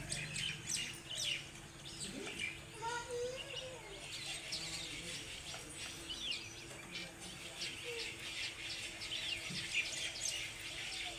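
Birds chirping: many short, high calls overlapping throughout, with a few lower whistled notes about two to three seconds in.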